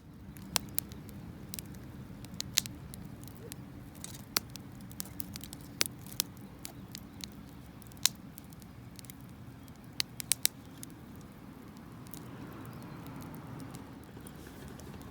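Wood campfire crackling, with sharp pops at irregular intervals over a steady low noise.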